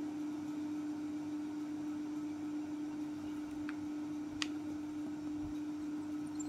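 A steady low hum held at a single pitch, over a faint hiss, with two faint ticks a little past the middle as a pencil and plastic scale are worked on the drawing sheet.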